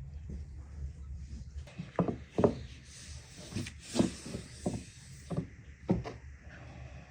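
A series of about eight light knocks and clatters over about four seconds, with a soft hiss in the middle, over a low steady hum.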